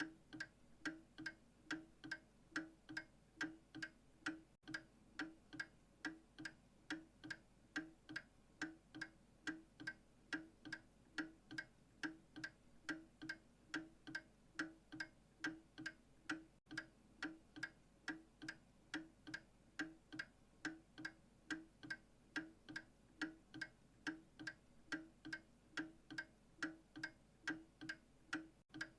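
Mechanical clock ticking steadily, about two ticks a second.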